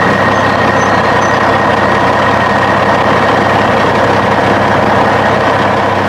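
A truck engine running steadily at an even pitch, with no revving or changes.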